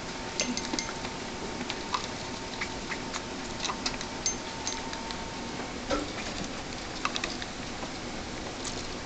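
Pet rats moving about and eating, making small irregular clicks, taps and scratches, a few each second, over a faint steady hum.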